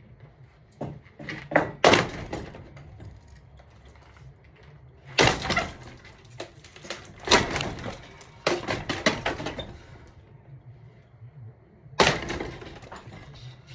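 Ceiling fan being wrecked: repeated loud clattering crashes and breaking sounds in bursts of about a second, over a low steady hum.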